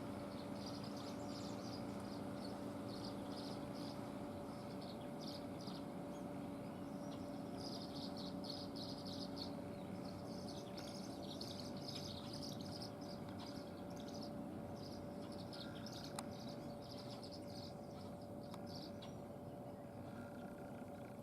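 Small birds chirping and twittering in quick runs of notes, on and off, with a steady low hum underneath.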